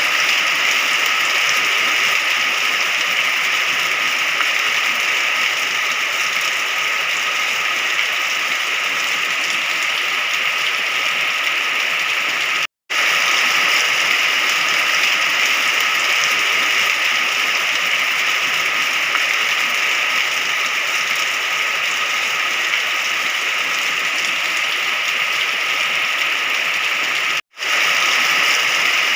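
Steady rain, an even continuous hiss, broken twice by a split-second gap of silence, about 13 and 27 seconds in.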